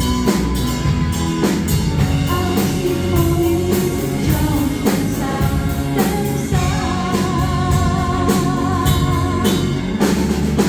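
Live pop band playing with a woman singing over a drum kit. From about six and a half seconds in, a long wavering note is held.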